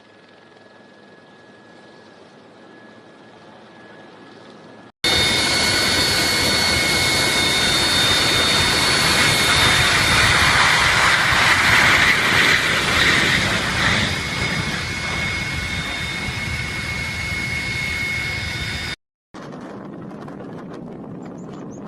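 Jet airliner engines running loud close by, a dense rush with a steady high whine, which starts abruptly about five seconds in and cuts off about five seconds before the end. Before it there is a faint hiss that slowly grows, and after it a quieter steady rush.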